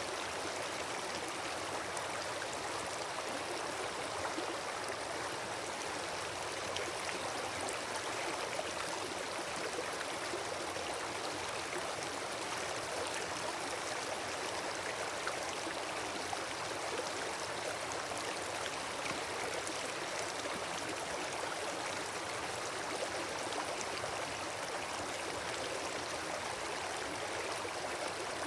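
Wood campfire burning steadily, a dense even hiss of flames with faint scattered crackles from the burning wood.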